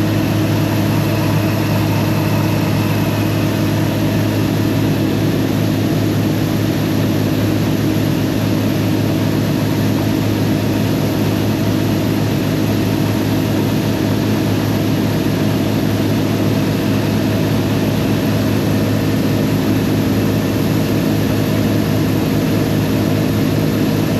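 Combine harvester engine running steadily at working speed: an even low drone with several steady tones layered above it, unchanging throughout.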